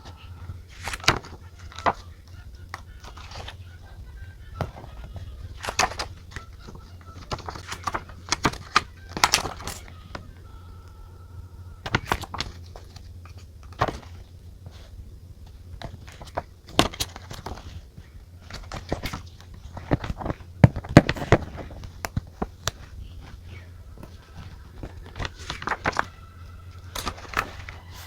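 Desk handling sounds of journaling: irregular taps and clicks of a pen and stickers on diary pages, with paper rustling, over a steady low hum.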